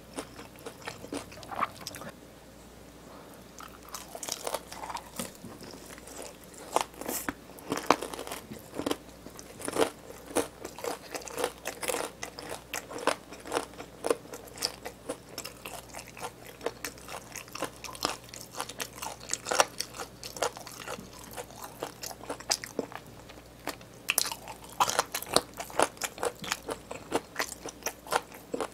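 Close-miked crunchy chewing and biting of BHC Bburinkle fried chicken drumstick, with dense irregular crunches and mouth clicks. A brief quieter spell comes about two seconds in.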